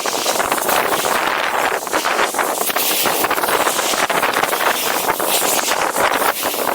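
Strong wind blowing across the microphone, a loud steady rush that swells and dips without a break.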